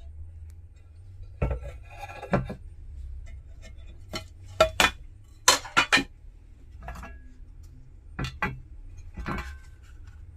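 An irregular series of sharp metallic clinks and knocks, about a dozen in all, several coming in quick pairs and triplets in the middle, over a low steady hum.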